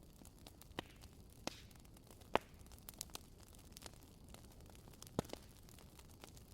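Burning firewood crackling, with a low steady hiss and irregular sharp pops; the loudest pop comes about two and a half seconds in.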